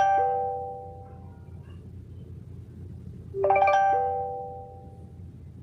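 Phone ringing on an outgoing call, unanswered. A short electronic chime, a low note then a bright ringing note, sounds twice about three and a half seconds apart, each dying away.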